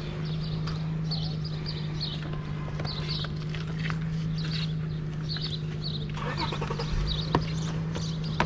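A bird chirping over and over in short high notes, above a steady low hum, with a sharp knock near the end.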